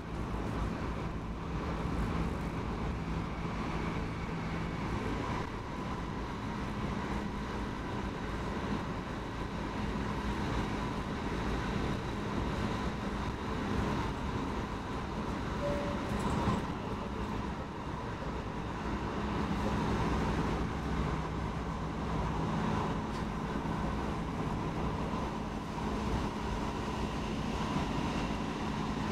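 Running noise inside an X10 electric commuter train at speed: a steady rumble of the wheels on the track, with a low, even hum under it.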